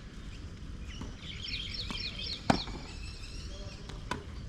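A bird gives a quick run of high, falling chirps about a second in. A sharp crack of a tennis ball struck by a racquet comes at about two and a half seconds, the loudest sound, and a fainter knock follows near the end.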